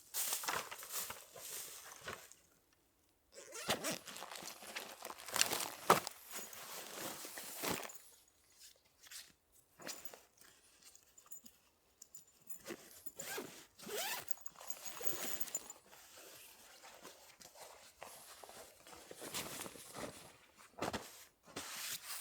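Irregular rustling and handling noises, a run of short scrapes and rustles, with a brief silent gap about two and a half seconds in.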